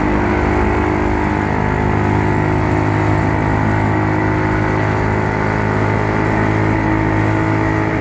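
Yamaha Mio Soul scooter's single-cylinder engine running at a steady, even speed.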